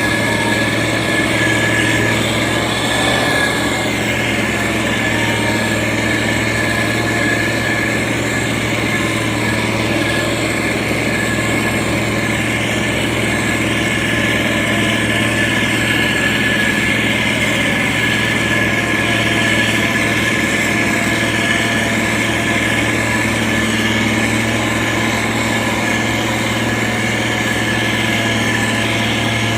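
Diesel engine of heavy road-construction machinery running steadily at a constant speed, with a deep hum and a steady high whine over it.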